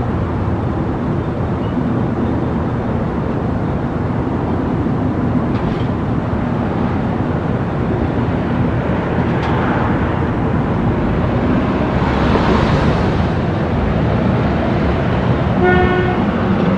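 Steady, loud rumbling noise like a moving vehicle or train, with a swell of hiss just past the middle. Near the end comes a short pitched, horn-like tone.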